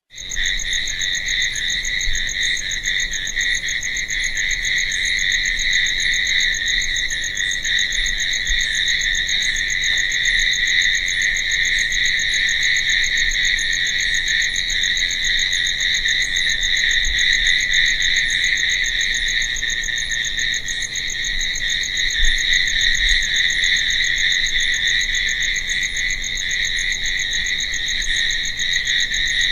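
Crickets chirping in a dense, continuous chorus, with a fainter, higher chirp repeating about once a second.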